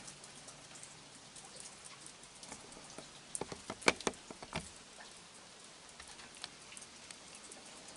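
Rain pattering steadily, with a short run of sharp clicks and knocks about three and a half to four and a half seconds in.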